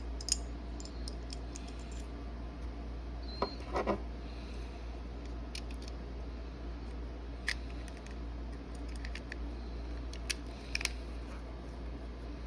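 Scattered small metallic clicks and taps of a Bauer Baby Browning clone .25 ACP pistol's parts being handled and fitted together during reassembly, over a steady low hum.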